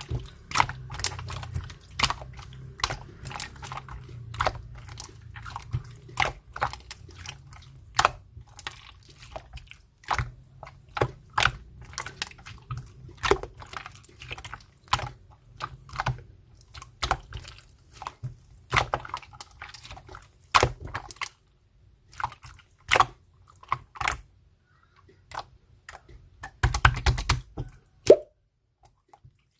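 Clear slime being squeezed and pressed by hand, giving irregular sharp clicks and pops, with a dense run of crackling near the end.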